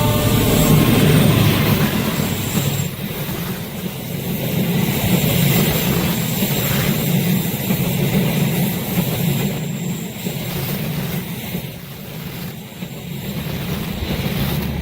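Train passing at speed: a loud, continuous rumble of wheels on rails, easing off slightly near the end.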